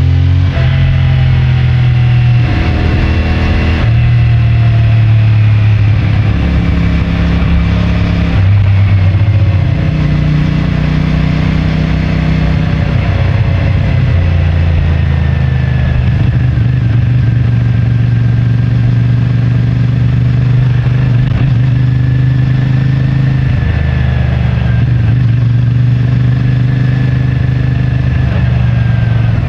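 CFMoto 450MT's parallel-twin engine and stock exhaust under way, the revs climbing and dropping through several gear changes in the first ten seconds, then running at a steady cruise.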